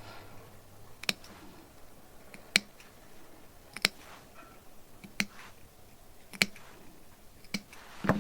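A row of sharp, separate clicks at a fairly even pace, about one every second and a quarter, with the last two coming closer together near the end.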